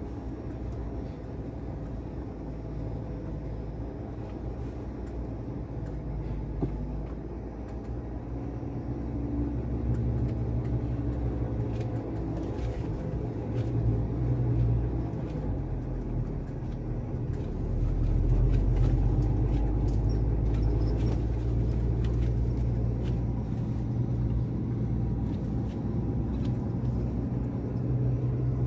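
Heavy truck engine running with a low rumble, growing louder about 8 seconds in and again about 18 seconds in.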